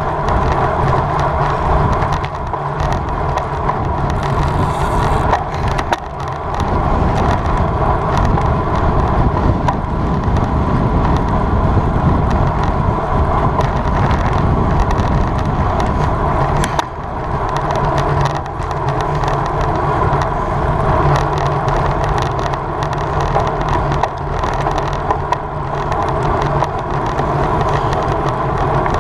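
Road bicycle in motion: steady wind rush over the microphone mixed with the hum of tyres rolling on pavement, easing briefly twice.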